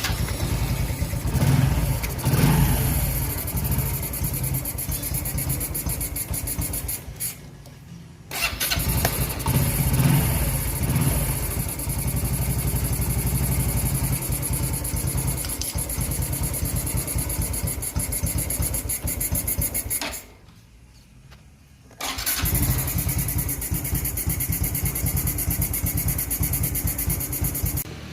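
Honda Wave 110i single-cylinder fuel-injected engine running at idle while the idle is set, after its throttle body and injector were cleaned for a stumble when the throttle is opened. It cuts out twice, once for about a second and once for about two seconds, and runs again each time.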